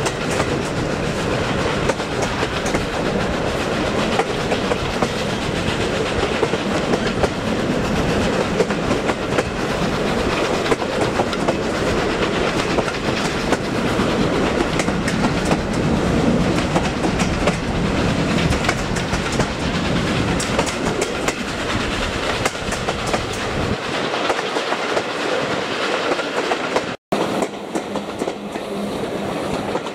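Railway train running along the line, its wheels clattering steadily over the rail joints. The deep rumble fades shortly before a sudden brief break in the sound near the end.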